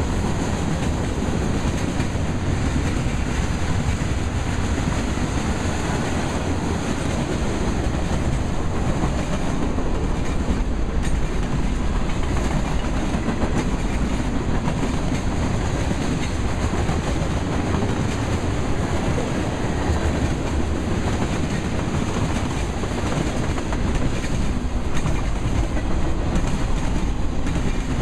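Freight cars (covered hoppers, tank cars and boxcars) rolling past on the track, their steel wheels on the rails making a steady rumble.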